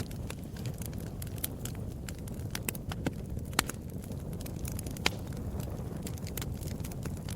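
Wood fire crackling: irregular sharp pops and snaps over a steady low rumble of flames, with a couple of louder pops around the middle.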